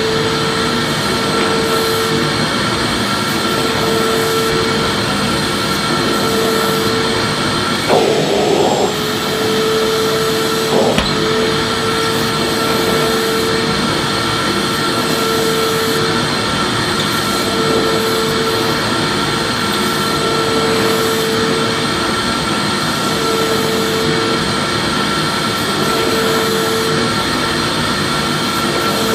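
Vacuum cleaner running steadily: a dense rush of air under a steady motor whine, with one tone in the whine coming and going every couple of seconds. There is a brief bump about eight seconds in.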